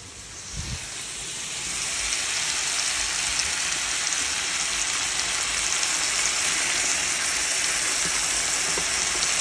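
Meatballs and vegetables sizzling in a hot enamelled cast-iron casserole. The sizzle swells to a loud, steady hiss over the first two seconds as chopped tomatoes are poured into the pan, after a single light knock less than a second in.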